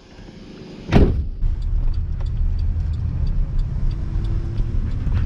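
A thump about a second in, then a vehicle's engine and road noise rumbling steadily, heard from inside the cabin, with a faint regular ticking over it.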